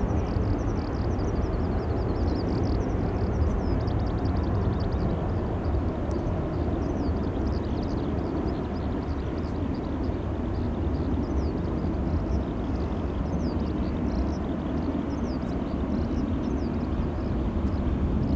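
Steady low rumble of jet airliner engines, with birds chirping high above it.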